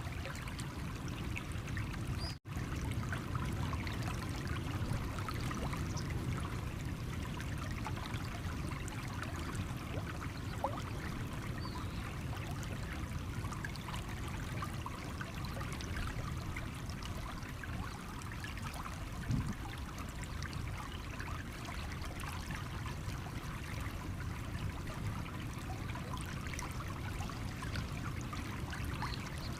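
Small stream running over stones, a steady trickling flow of water. The sound drops out for an instant about two seconds in.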